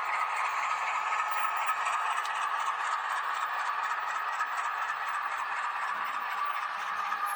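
H0-scale model train running along the track: a steady electric motor whine with the wheels rattling and clicking lightly over the rails.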